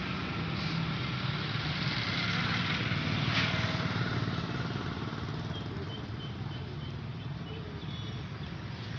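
An engine running steadily, growing a little louder about three seconds in and then easing off.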